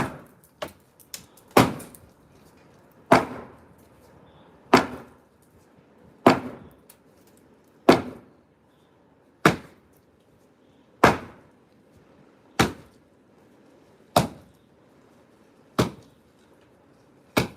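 Heavy hand-tool blows striking concrete, one every second and a half or so in a steady working rhythm, each a sharp crack with a short ring. There are a few lighter knocks near the start.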